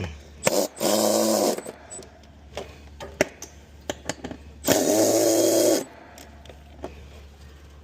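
Power drill whirring in two runs of about a second each, one near the start (after a short blip) and one about five seconds in, with small clicks and knocks of tool work in between.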